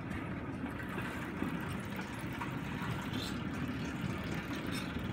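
Steel wheels of a pedal-powered rail bike rolling along a railroad track: a steady low rumble with faint clicks.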